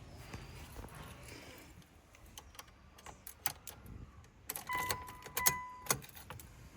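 Keys jingling with light clicks and rattles inside a car, and about five seconds in two short electronic chime beeps from the car. The engine is not yet running.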